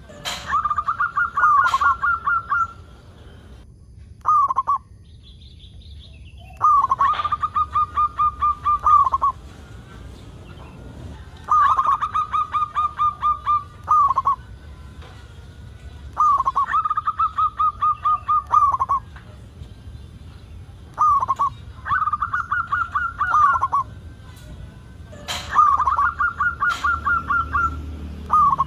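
Zebra dove (perkutut) cooing song: phrases of rapid, evenly repeated short notes, each phrase about two to three seconds long, repeated every four to five seconds. It is a much-singing (gacor) bird of the kind played to prompt other perkutut to sing.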